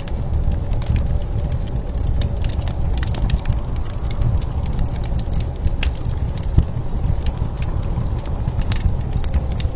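Wood fire crackling, with frequent irregular sharp pops, over a steady low rumble of blizzard wind.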